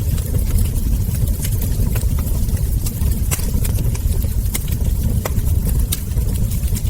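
Wood fire crackling, with frequent sharp, irregular pops and snaps from burning logs and embers over a steady low rumble of the burning fire.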